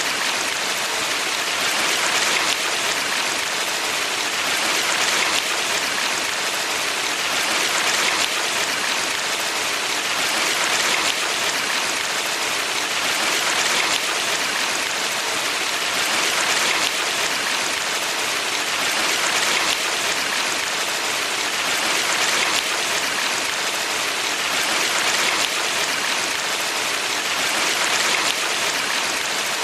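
Valley stream water rushing steadily, an even hiss that swells gently about every three seconds.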